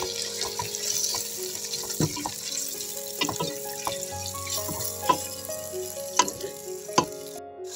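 Diced chicken breast sizzling in hot oil and butter in a pot as it is stirred with a silicone pasta spoon, the spoon knocking against the pot about five times. Soft background music with held notes plays under it.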